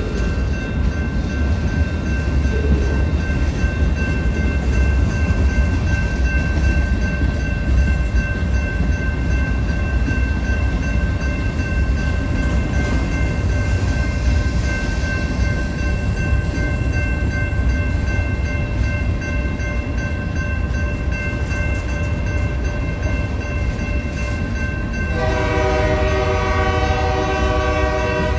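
Freight cars rolling past: a steady low rumble of steel wheels on rail, with a thin, steady high squeal from the wheels above it. Near the end a train horn sounds one held, multi-toned blast.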